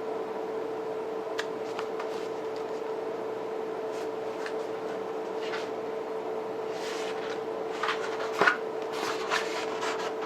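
Cardboard and paper packaging of a boxed limited-edition disc set being handled: scattered light taps and rustles, busiest and loudest in the second half, over a steady hum.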